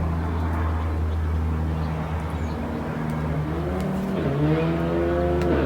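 A motor vehicle engine running with a steady low hum, then revving up with a rising pitch from about three seconds in.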